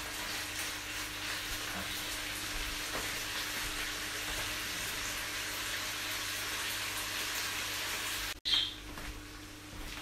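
Chopped beef sizzling steadily as it fries in a pan, over a low steady hum; the sizzle cuts off abruptly about eight seconds in, followed by a brief sharp sound and quieter sizzling.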